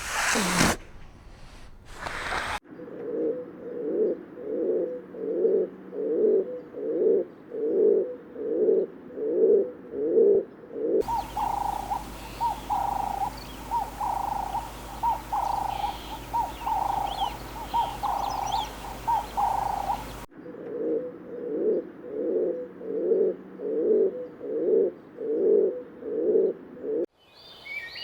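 Bird calls: a low cooing call repeated a little under twice a second, broken in the middle by a higher repeated call with faint chirps over a steady hum.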